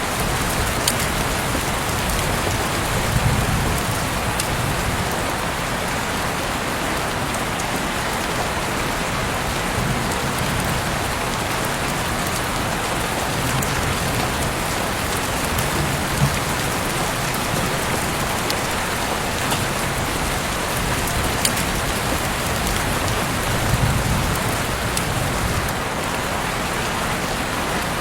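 Heavy rain falling steadily as a dense, even hiss, with occasional sharp ticks of single drops and a few soft low swells.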